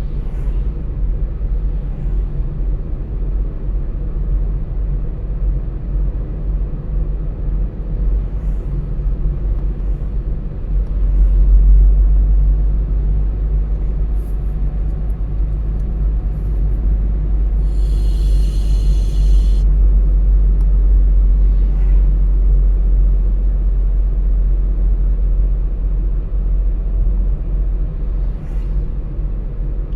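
Car driving along, a steady low rumble of road and engine noise that grows louder about a third of the way in, with a brief high hiss a little past halfway.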